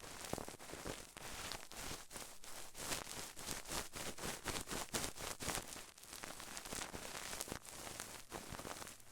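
ASMR trigger sounds close to the microphone: a dense, irregular run of crackles, clicks and rustles, like something being crinkled, scratched or tapped.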